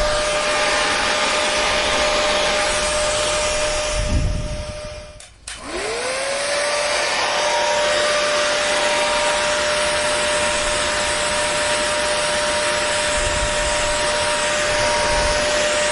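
Hair dryer running steadily, a rush of air with a steady motor tone. About four seconds in there is a low thump and it cuts out for a moment; then the motor tone rises back up to speed and it runs steadily again.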